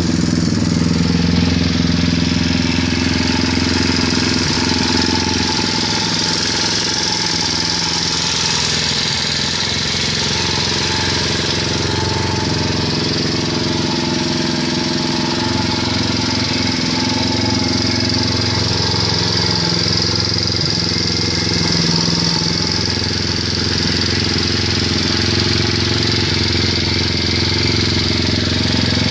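A 125 cc pit bike's small single-cylinder four-stroke engine running steadily near idle, with only slight changes in pitch.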